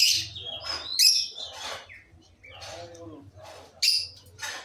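Fischer's lovebirds calling: a string of short, shrill chirps and squawks, the loudest near the start, about a second in and near the end.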